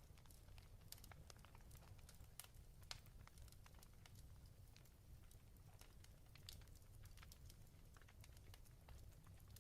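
Faint fireplace crackling: irregular sharp pops and snaps over a low, steady rumble.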